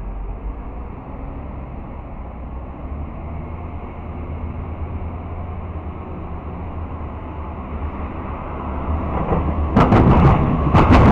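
Restaurant tram passing with a steady low rumble, then a quick run of loud knocks and clunks near the end.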